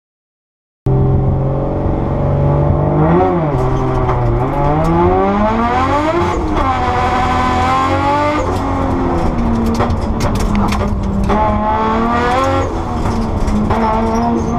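Nissan R32 Skyline race car engine heard from inside its stripped cabin, coming in about a second in and revving hard, climbing in pitch and dropping sharply at each gearchange several times. Sharp crackles cut in over it through the second half.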